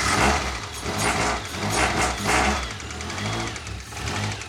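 Freshly rebuilt Toyota 4A-GE twin-cam four-cylinder engine, just fired up for the first time with its ignition timing newly corrected, running with uneven surges in revs for the first couple of seconds, then settling to a steadier run.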